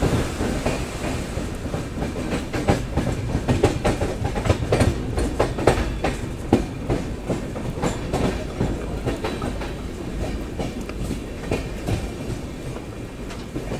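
Passenger train's wheels clacking over the rail joints as it pulls out of the station, heard from the open door of the coach: a dense, irregular run of sharp clacks over a steady rumble, easing slightly near the end.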